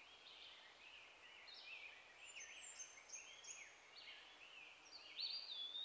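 Faint songbirds chirping, many short high notes overlapping, with a longer whistled note near the end.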